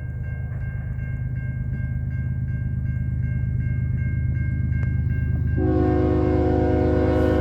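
GE ES44AC diesel locomotive approaching, its engine rumble growing steadily louder, while a bell rings about two and a half times a second. About three-quarters of the way through, the locomotive's Nathan K5HL five-chime air horn starts a long blast.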